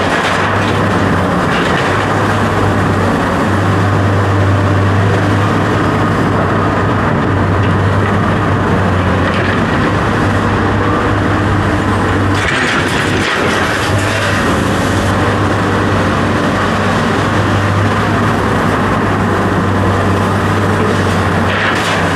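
Loud, steady machine noise with a low hum that drops out briefly now and then.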